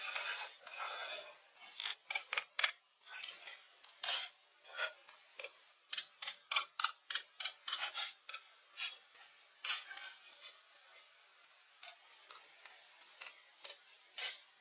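Short rasping, scraping strokes in an uneven series, several a second through the middle and fewer toward the end, after a steady hiss that fades out in the first second.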